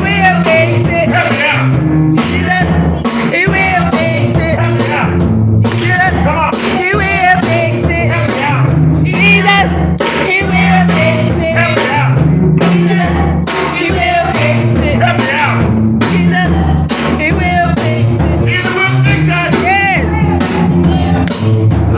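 Gospel song played by a band, with a singer over a steady bass line and drums.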